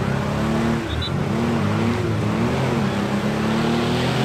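Engines of several demolition-derby minivans running and revving, their pitch rising and falling, over a steady engine drone.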